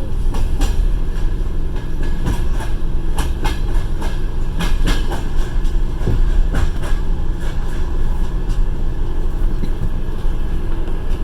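Passenger train running, heard from inside the carriage: a steady low rumble with the wheels clacking over the rail joints, the clicks coming irregularly and thickest in the first seven seconds.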